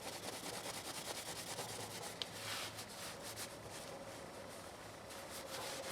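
Faint rubbing and light handling noise of a freshly polished screwdriver, with a single small click about two seconds in.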